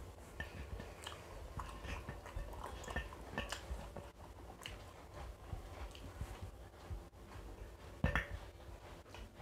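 Two people eating biryani with their hands, chewing and smacking their lips, with many small scattered clicks; a louder sharp knock comes about eight seconds in.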